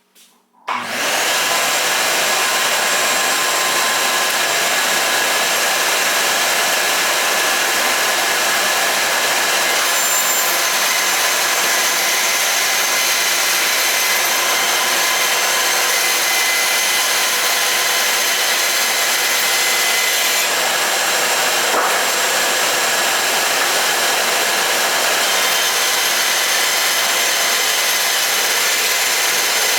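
Craftsman 12-gallon shop vacuum switched on, its motor starting abruptly under a second in and then running steadily at full speed.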